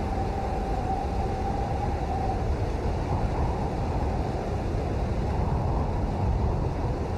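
Steady rain as a deep, even rushing noise, with a faint held tone during the first couple of seconds.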